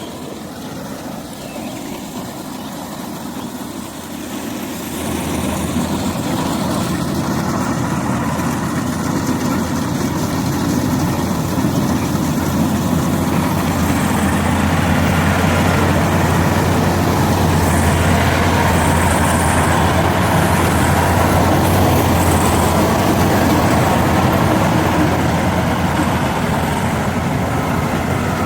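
Engine of an 88-horsepower World combine harvester running steadily in a rice paddy, growing louder about five seconds in and then holding a steady level.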